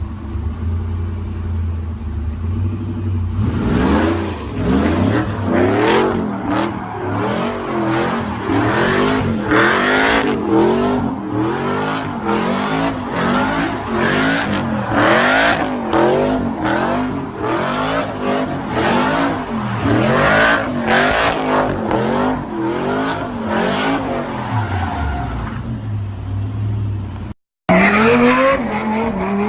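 A car engine idles, then is revved over and over in quick blips, its pitch rising and falling about once a second for some twenty seconds, before settling back to idle. Near the end a brief dropout is followed by another engine revving.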